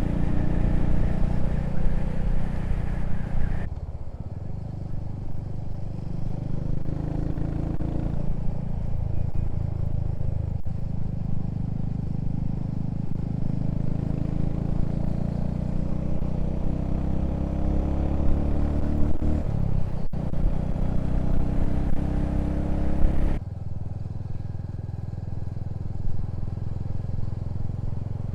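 Motorcycle engine running under way, with wind and road noise, its pitch rising and falling as the bike speeds up and changes gear. The sound changes abruptly twice, about 4 s and 23 s in.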